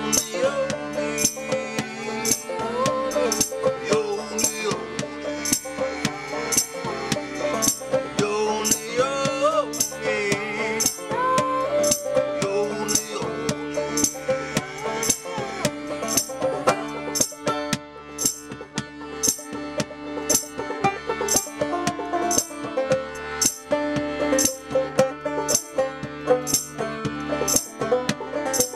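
Live folk-punk music played on banjo, with a shaker keeping a steady beat.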